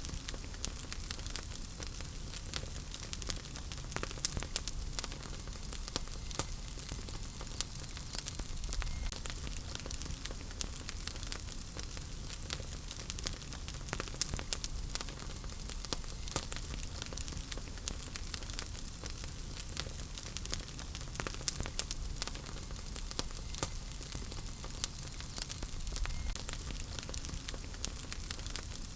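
Wood fire burning in a fireplace: a steady hiss and low rumble of flames with frequent sharp, irregular crackles and pops of burning logs.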